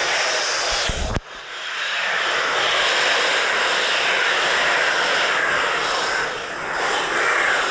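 A dense colony of oilbirds screeching inside a cave, merging into a continuous harsh din. It drops out briefly about a second in, then comes back.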